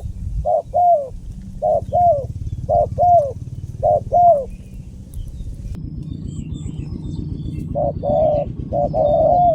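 A spotted dove (tekukur) cooing: four paired calls, each a short note followed by a longer note that slides down in pitch. After a pause of about two seconds, a quicker run of coos follows near the end. A steady low hum runs underneath.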